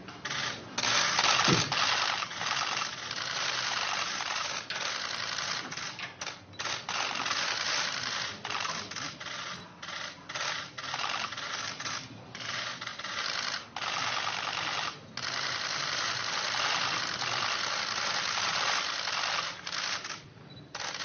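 Many camera shutters clicking at once in rapid, overlapping bursts: a dense chatter of clicks that pauses briefly several times.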